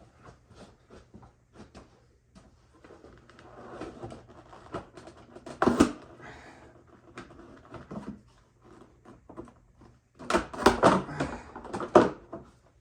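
Thick aftermarket plastic ATV fenders being pried and pushed into place on the frame: a run of clicks, creaks and knocks, with a loud knock about six seconds in and a louder cluster of knocks near the end.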